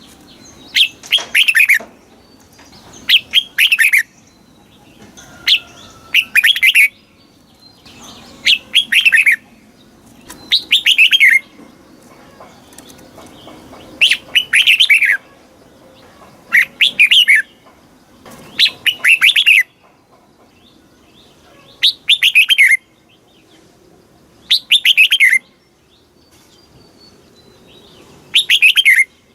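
Red-whiskered bulbul singing: a dozen short, loud phrases of quick falling notes, one about every two seconds.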